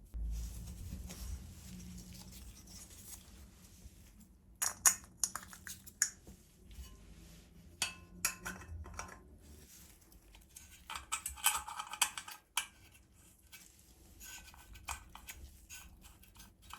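Scattered clicks and light metal clinks of small lantern parts being handled and fitted together, busiest about five seconds in and again around eleven to twelve seconds in.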